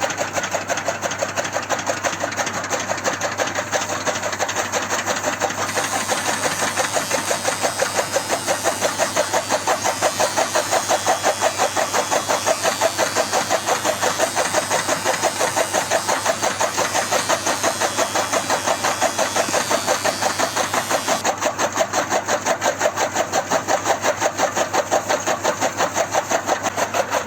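Small motor-driven DIY mini chaff cutter running steadily, with an even chugging pulse of about six beats a second.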